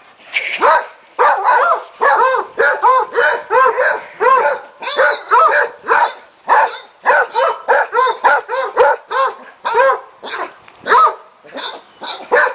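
Dogs barking in a rapid, continuous run of short, high barks, about two or three a second.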